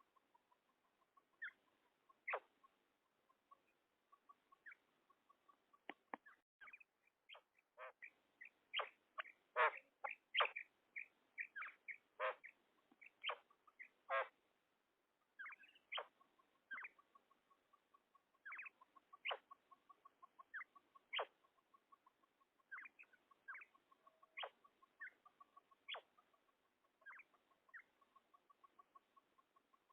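Female common quail calling: a long run of short, sharp call notes at irregular spacing, thickest around the middle, over a faint, fast ticking.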